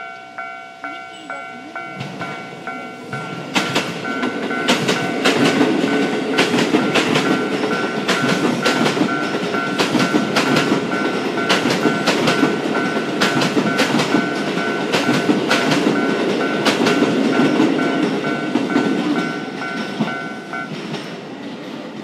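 A Japanese level-crossing warning bell rings in steady repeated dings while a train passes over the crossing. The train's wheels clack over the rail joints in a long run of sharp clicks. The bell stops near the end as the train fades.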